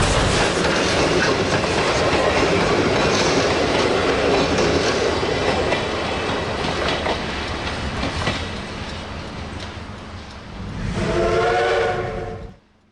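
Steam locomotive C-108 running past with a steady rush of exhaust and rail clatter, its steam whistle blowing for about a second and a half near the end. The sound then cuts off suddenly.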